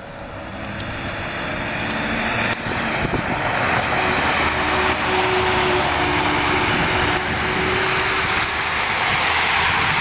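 Scania 164 truck's 580 hp V8 diesel engine running, growing louder over the first three seconds, then loud and steady.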